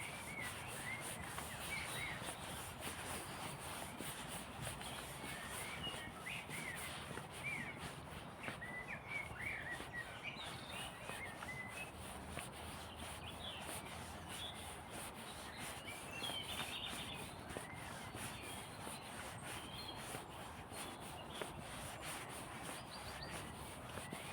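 Small songbirds chirping and calling, many short scattered calls overlapping, over a steady background hiss of outdoor noise.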